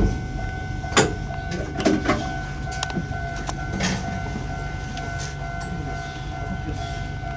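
Narrow-gauge electric train car standing still, with a steady electrical hum and low rumble and scattered clicks and knocks.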